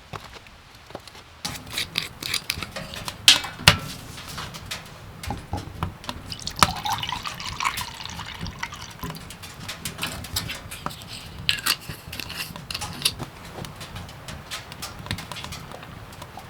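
Liquid being poured into a container, its pitch rising as it fills, among many small clicks and knocks of handling.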